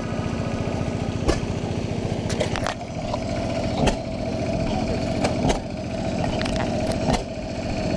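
An engine running steadily with a fast, even firing rhythm, with a few sharp clicks or knocks over it.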